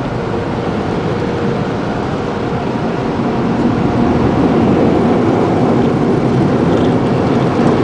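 Automatic car wash heard from inside the car: a loud, steady rushing of its sprayers or dryer blowers against the car body. It grows a little louder about halfway through.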